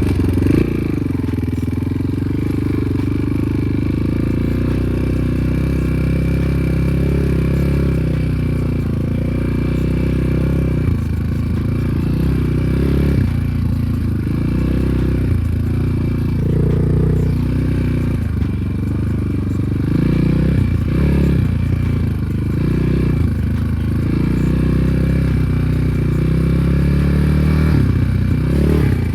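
Enduro motorcycle engine running while being ridden, its note shifting up and down with the throttle.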